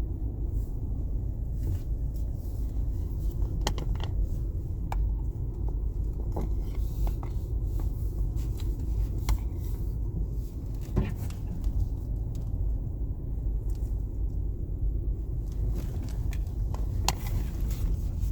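A vehicle driving slowly, heard from inside the cabin: a steady low rumble of engine and tyres, with scattered clicks and knocks.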